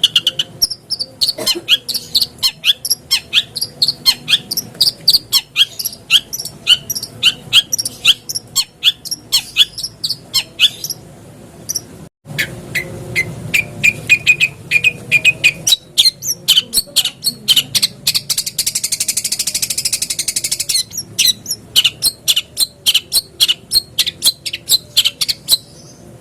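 Long-tailed shrike (cendet) in full song: a fast run of sharp, high chipping notes, three or four a second. About 18 seconds in comes a harsh, buzzy rasp lasting a few seconds, and there is a brief break about 12 seconds in.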